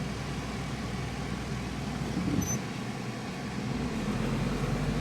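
Car engine running steadily at low speed as the car eases through a rough patch of dirt road, heard from inside the car. The low rumble drops away briefly about two and a half seconds in, then returns.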